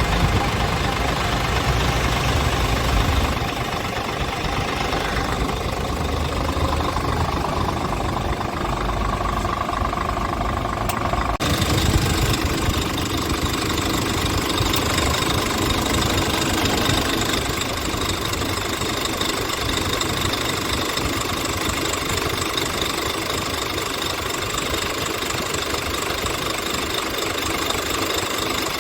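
Scania R tractor unit's diesel engine idling steadily. The sound changes abruptly about eleven seconds in, then carries on evenly.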